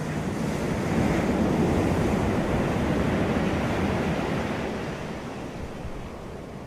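Sea waves breaking and washing up the beach, with some wind on the microphone. The surge is loudest in the first few seconds and eases off as the wave draws back.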